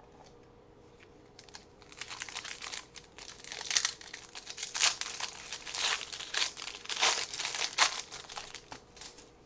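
Trading card pack wrapper crinkling and tearing as a pack is opened: quick, dense crackles starting about two seconds in and lasting until near the end.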